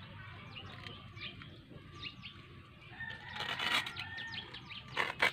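Small birds chirping, many short falling chirps. About three seconds in there is a louder rustling noise, and near the end two sharp short knocks.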